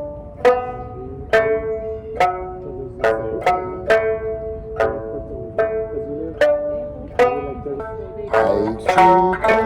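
Okinawan sanshin being plucked, one slow verse of a song: single notes about one a second, each struck sharply and ringing on, with a quicker run of notes near the end. It is played by someone still learning the instrument.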